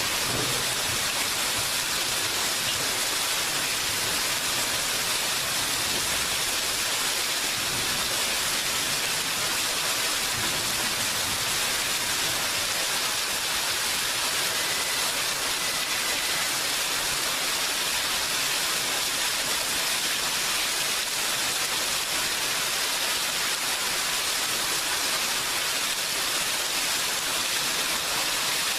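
Steady heavy rain falling, an even unbroken hiss, with the last low rumble of thunder fading out in the first second.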